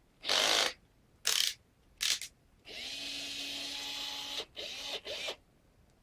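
Small electric drill run from a 12-volt power supply, triggered in three short bursts, then held for nearly two seconds with a steady motor whine, then given two more quick bursts.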